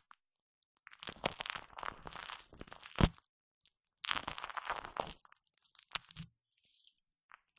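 Shaving foam squished and worked against a Blue Yeti microphone, giving close, sticky crackling in two bursts of about two seconds each, with a sharp knock on the microphone at the end of the first burst.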